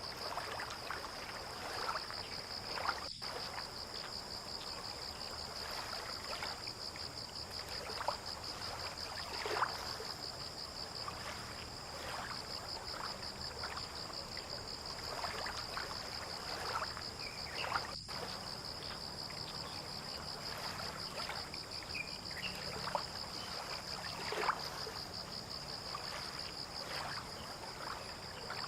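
Waterside ambience at a fishing port: a steady high insect trill runs throughout, over irregular small splashes and lapping of water, with a faint low hum underneath.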